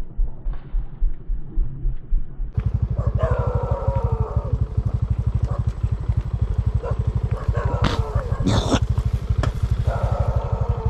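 A small motorcycle engine running with a rapid low chug that becomes denser and steadier about two and a half seconds in. A brief sharp noise sounds over it just past eight seconds.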